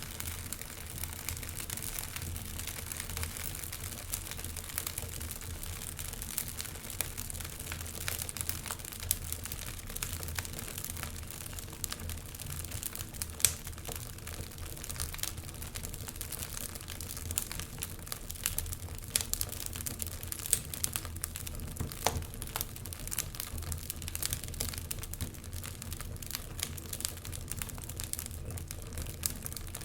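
Wood fire crackling in a fireplace: a dense, irregular run of small pops and snaps, a few sharper ones standing out, over a steady low rumble.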